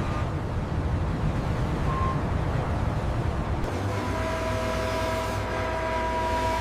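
Steady low rumble of heavy machinery. About four seconds in it changes abruptly to a deeper steady drone, with a whine of a few held tones over it.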